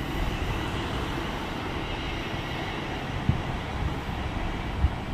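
A train running at the station platform: a steady rumble with a few short low thumps.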